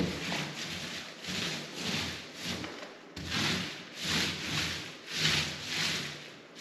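Paint roller being rolled back and forth over a wall or ceiling in steady strokes, a rhythmic rubbing swish about one and a half times a second.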